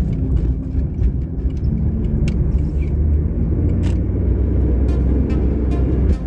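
Car driving: a steady low road and engine rumble, with scattered faint clicks.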